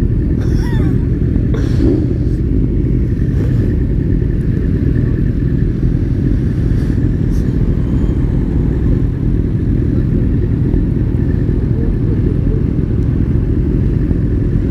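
Motorcycle engine running steadily under a constant low wind roar, as heard while riding.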